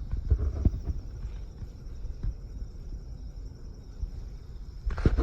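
Footsteps of a person walking on the riverbank: a few thuds about half a second in and another cluster near the end, over a steady low rumble.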